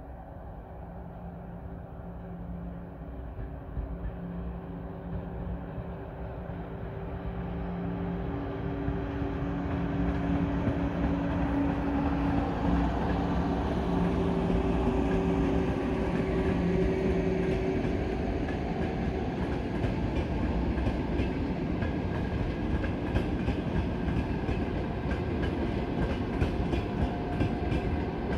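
EP2K electric locomotive hauling a passenger train approaches and passes, with a steady hum of a few low tones that grows louder and fades just after the locomotive goes by. The coaches then roll past with a steady rumble and wheels clicking rhythmically over rail joints.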